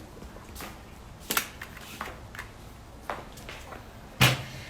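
A few scattered sharp knocks and taps, the loudest a dull thud near the end.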